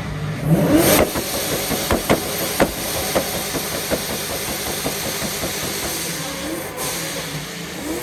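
Fox-body Mustang engine revved hard through a loud exhaust, with a few sharp cracks about two to three seconds in.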